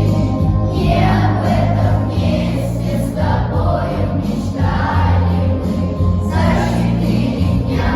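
A group of voices singing a song together in chorus over a steady instrumental accompaniment, in phrases of about a second each.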